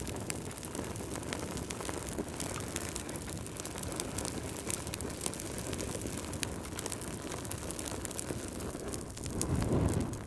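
Wood fire crackling: a steady low rumble of flames with many sharp pops and crackles throughout, and a brief louder low swell near the end.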